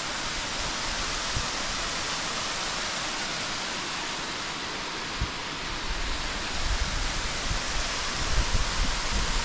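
Steady rushing roar of a high waterfall, Purling Brook Falls, heard from across the valley. From about six seconds in, low gusts of wind buffet the microphone.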